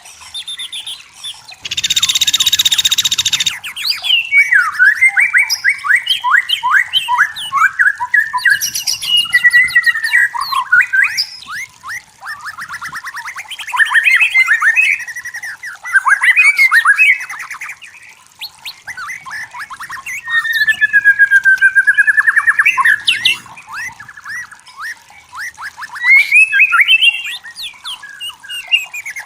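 White-rumped shama singing a long, varied song of rapid trills, whistled glides and chattering phrases in quick succession. A harsh rasping burst comes about two seconds in.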